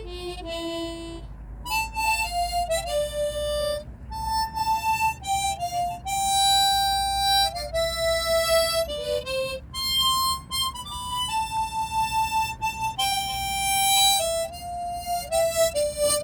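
Harmonica playing a slow melody, one held note after another with short moving notes between them.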